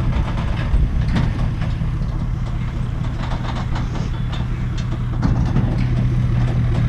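A vehicle engine running steadily at a low, even hum, with scattered clicks and knocks of metal over it.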